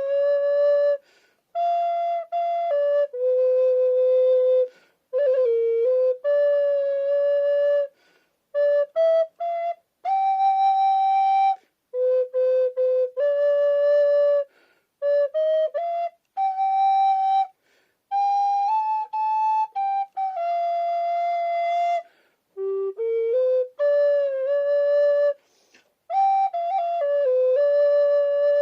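Solo alto recorder playing a freely improvised melody: held notes and short runs in phrases broken by brief pauses, with a few notes bent in pitch.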